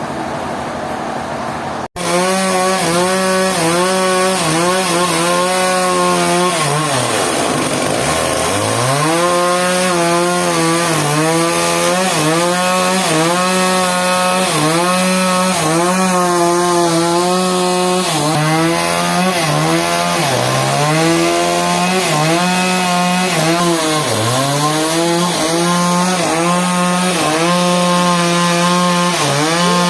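Chainsaw running at high speed while cutting through a large log. The engine note sags again and again under load, dropping deeply once about eight seconds in. The sound starts with a sudden cut about two seconds in.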